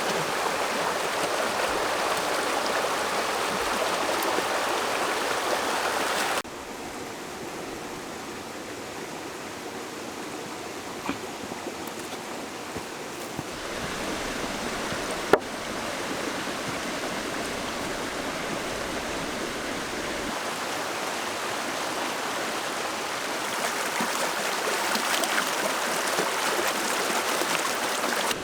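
Steady rushing of running water. It drops abruptly in level about six seconds in and builds back up later, with a few faint clicks and one sharp click about fifteen seconds in.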